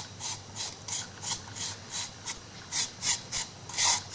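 Quick back-and-forth rubbing strokes by hand on paper or MDF wood, about three a second, scratchy like sanding or burnishing.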